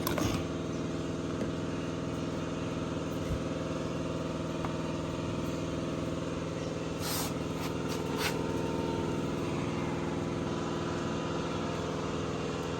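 Lawn mower engine running at a steady speed, with a couple of light clicks from parts being handled a little past the middle.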